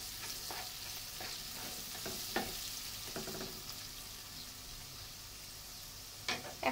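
Sliced onions and freshly added ground spices sizzling in hot oil in a nonstick wok, stirred with a wooden spatula that scrapes and taps against the pan, with a sharper knock near the end.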